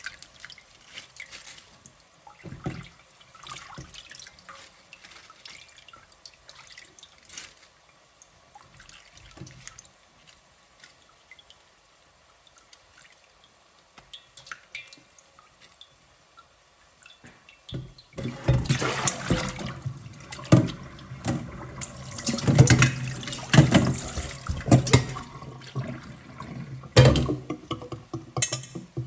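Quiet kitchen handling with a few small clicks, then, from about two-thirds of the way in, loud irregular splashing of running water, as when food is rinsed in a sink.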